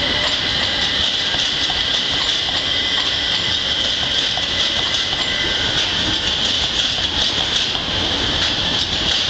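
Class 357 Electrostar electric multiple unit running past: a steady rushing hiss with rapid clicking of wheels over the rail joints, and a faint high tone in the first several seconds.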